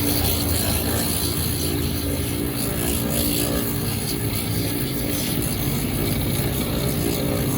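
Electric sanding machine running steadily, its abrasive grinding against a rubber shoe heel being sanded so the glue grips.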